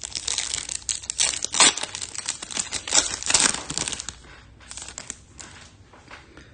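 Foil wrapper of a Topps Chrome card pack crinkling and tearing as it is opened: a dense run of rustling for about four seconds, then a few softer rustles.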